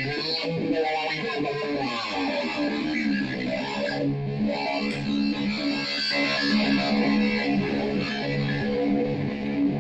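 Electric guitar played through a chain of noise effects pedals: fuzz, Memory Man delay and a step phaser. It gives a dense, distorted wash of repeating notes that settles into a steady pulsing pattern.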